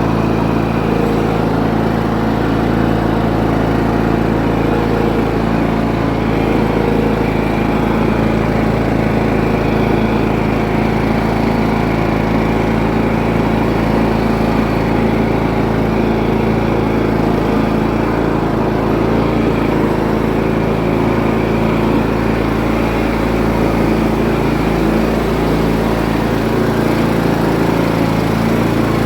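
Cub Cadet LTX1045 lawn tractor engine running steadily at an even speed after its tune-up.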